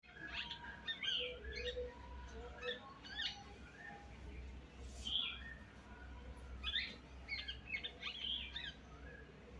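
A pet parrot making soft, scattered short chirps and squeaks, irregular, with busier clusters near the start and again around the seventh and eighth seconds.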